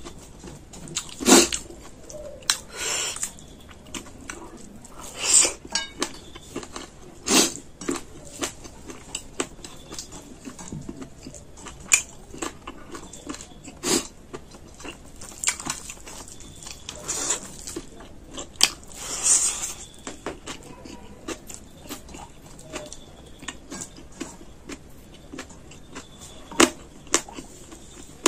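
A person eating rice and chicken curry by hand, close to the microphone: chewing and smacking, with irregular sharp clicks and louder short bites.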